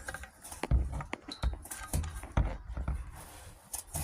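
Irregular knocks, bumps and scrapes as rust and dirt are moved around inside a car's gas tank, debris that is suspected of getting into the fuel pump and causing sputtering and stalling.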